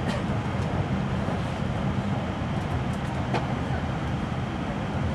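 Interior running noise of an N700A Shinkansen passenger car: a steady low rumble from the moving train, with a couple of faint clicks.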